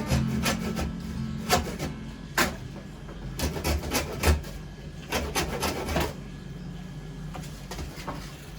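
Soft acoustic guitar music fading out a couple of seconds in, with irregular knocks and scrapes of wood over the first six seconds, then fainter taps.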